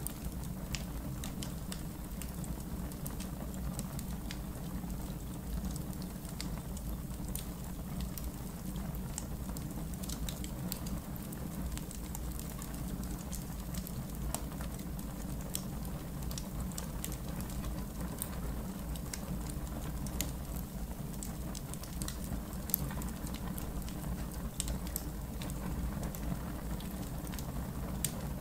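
Wood fire in a backyard fire pit burning steadily, with frequent sharp crackles and pops over a low rumble.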